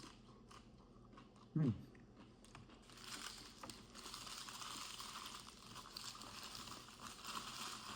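Paper food wrapper crinkling and rustling from about three seconds in, as a fast-food burger is unwrapped. Before it come a few faint clicks and one short voiced sound.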